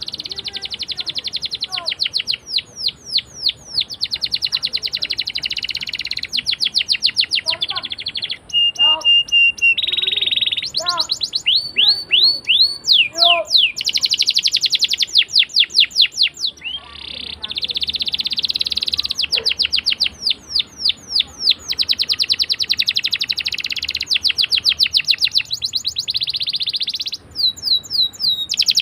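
Domestic canary singing long rolling trills: fast runs of repeated chirping notes in phrase after phrase, with a brief steady whistle about nine seconds in.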